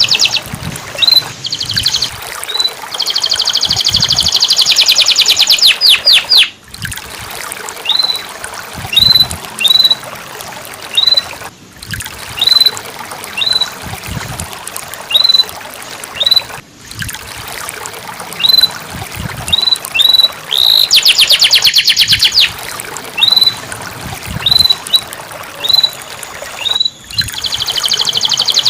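Domestic canary singing: rapid rolling trills broken by single short upward chirps. It is a recording used to coax a silent canary back into song. The song cuts out briefly about every five seconds.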